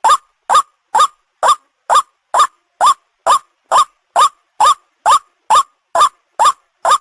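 White-breasted waterhen (ruak-ruak) calling, a short note rising in pitch repeated evenly about twice a second without a break.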